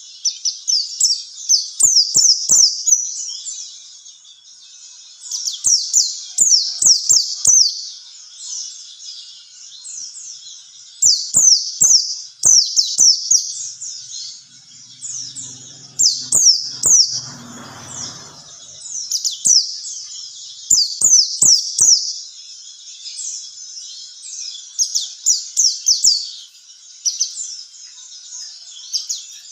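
Pleci (white-eye) singing: bursts of rapid, high, down-slurred twittering notes, in phrases about two seconds long that repeat every few seconds, as in a training recording played to draw out a bird's song.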